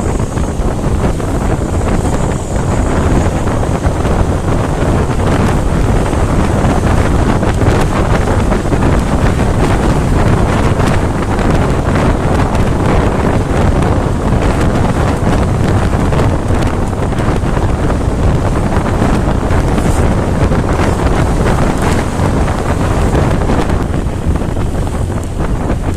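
Unladen truck being driven fast: steady engine and road noise, with heavy wind buffeting on the microphone.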